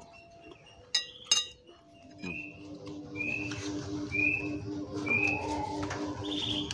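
A bird chirping: short high calls repeated about once a second, over a steady pulsing low hum that starts about two seconds in. Two sharp ringing clinks come about a second in and are the loudest sounds.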